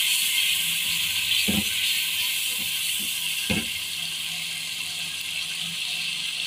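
Onion and spice masala sizzling in oil in a pot, a steady hiss, at the stage where it has been fried through. Two soft knocks from the spatula come about a second and a half and three and a half seconds in.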